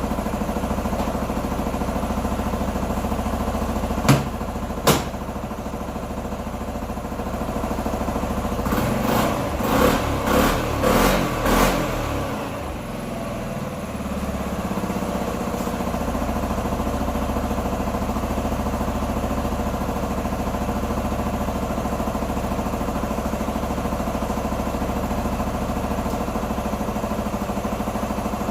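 A 125 cc motorcycle engine idling steadily, with its throttle blipped about five times in quick succession around the middle before it settles back to idle. Two sharp clicks come a few seconds in.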